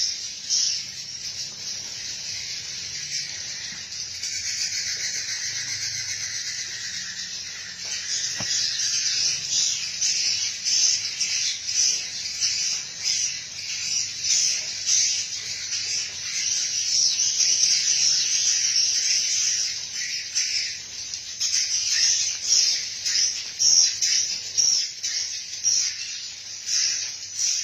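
Swiftlets twittering: a dense, unbroken chorus of rapid, high chirps from many birds at once, swelling louder in places in the second half.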